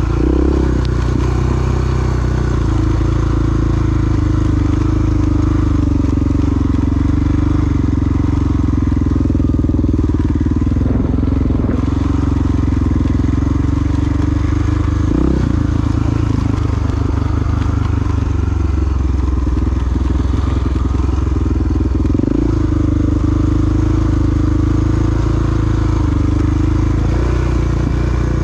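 Big single-cylinder four-stroke dual-sport motorcycle engine running steadily while under way, with a couple of brief breaks in the engine note about halfway and about three quarters through.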